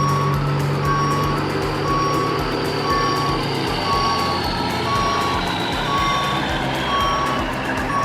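Truck reversing alarm beeping about once a second, each beep about half a second long, over a running truck engine.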